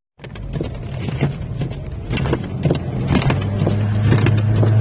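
Car interior sound while driving off in snow: road and tyre rumble with scattered knocks and clicks, and the engine's steady low hum growing louder about three seconds in as the car pulls away.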